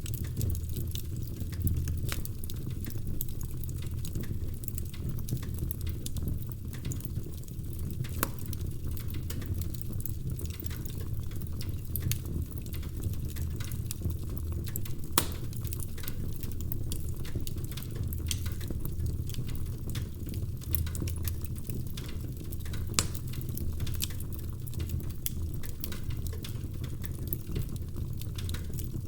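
Wood fire crackling in a fireplace: a dense run of small irregular snaps and pops from the burning logs over a steady low rumble of the flames, with a few louder pops about eight and fifteen seconds in.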